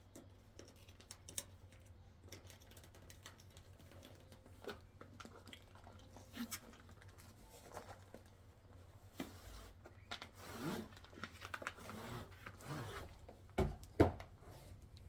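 Packaging being handled and opened: rustling, crinkling and tearing with scattered light clicks, busier in the second half, and two sharper knocks near the end.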